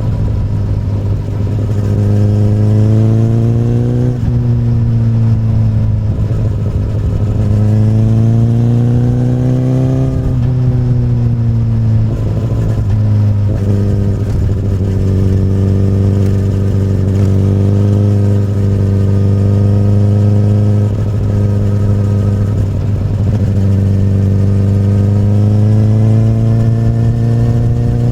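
Honda CBR1000RR SC59's inline-four engine running through an Akrapovic carbon slip-on exhaust while being ridden. The engine note climbs in pitch and drops sharply about four seconds in and again around ten seconds, then holds steadier with a few brief dips.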